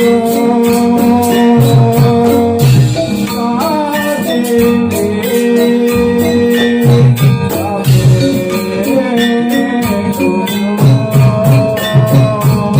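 Live jathilan (kuda kepang) dance music: drums beat a driving pattern under dense jingling percussion and long held melodic notes, with a voice or melody line sliding in pitch now and then.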